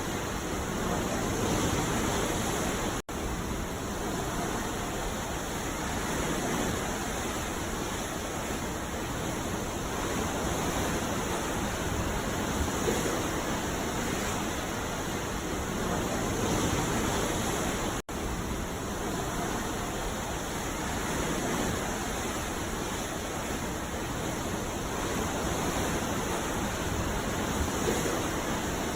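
Ocean surf washing onto a beach: a steady rush of water noise with slow, gentle swells, broken twice by a momentary dropout.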